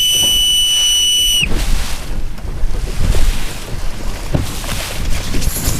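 A steady, high electronic beep lasting about a second and a half. Wind then buffets the microphone while water splashes and sloshes against a boat on open water.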